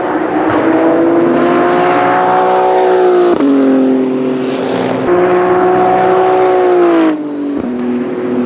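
BMW M4 GT3 race car's twin-turbo straight-six running hard at high revs. The pitch drops sharply about three and a half seconds in, like an upshift, then steps back up about five seconds in and falls away near the end.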